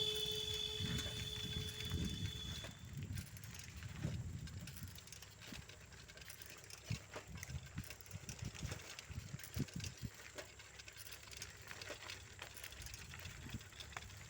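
Bicycles ridden along a road, with scattered ticks and rattles over a low rumble. A vehicle horn's held tone dies away over the first two or three seconds.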